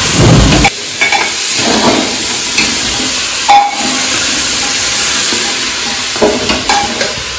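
Spiced pumpkin pieces sizzling in hot oil in a Hawkins pressure cooker while a steel ladle stirs them. The ladle clinks against the pot a few times, with one short ringing clink about halfway through.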